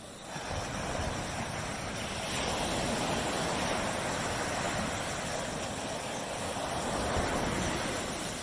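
Surf: a wave breaking and washing up the beach, the rush swelling about two seconds in and easing off near the end.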